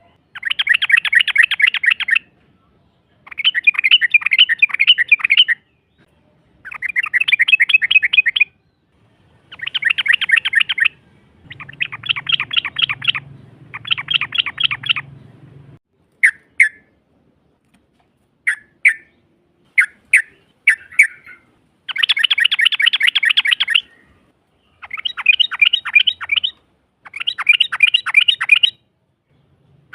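Yellow-vented bulbul (trucukan) singing long, rapid chattering trills in bursts of about two seconds with short gaps between them. Midway there is a stretch of single sharp notes. These are the 'ropel panjang' trills used as a lure call to make other trucukan answer.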